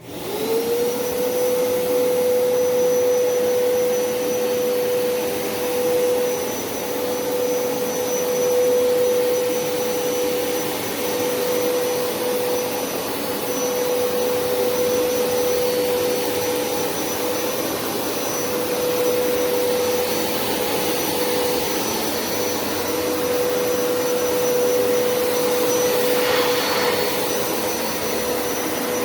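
Hoover SpinScrub50 carpet cleaner's suction motor switching on and running steadily, its whine rising to pitch and then holding over a constant rush of air, on a dry suction pass with no water being put down.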